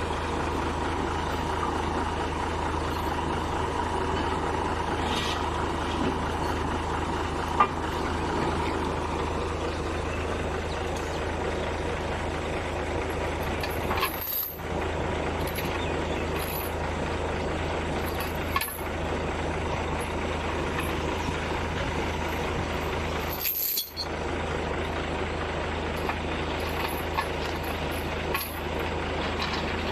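Heavy diesel machinery running steadily with a constant low drone and rumble, broken by a few brief dips.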